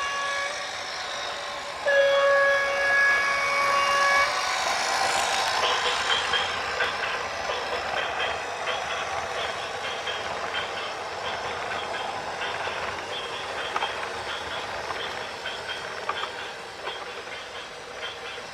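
A horn sounds one steady, loud blast about two seconds in. It gives way to a long rattling clatter full of rapid clicks.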